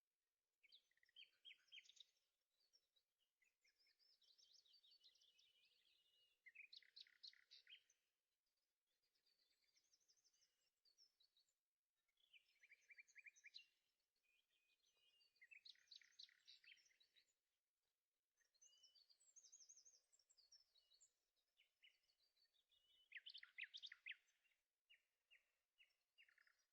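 Faint birdsong: a songbird repeating short phrases of quick high chirps and trills every few seconds, with brief pauses between them.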